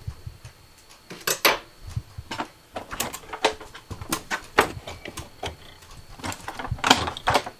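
Butter knife prying and scraping under a fridge door trim strip, with irregular clicks and snaps as the strip's retaining clips come loose; the loudest snaps come near the end.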